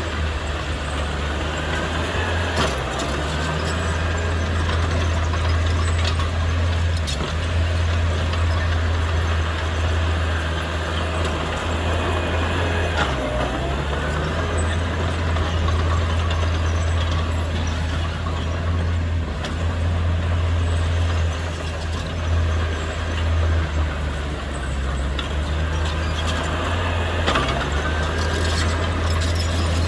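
Heavy diesel engine running steadily under varying load, its low drone dipping briefly a few times, with occasional faint metallic clicks.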